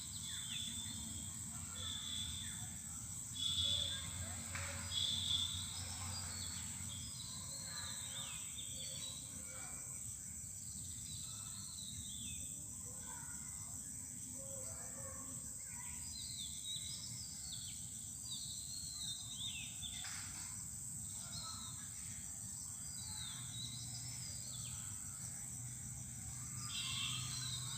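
Quiet outdoor background: small birds chirping and calling over and over, with short falling notes, over a steady low hum.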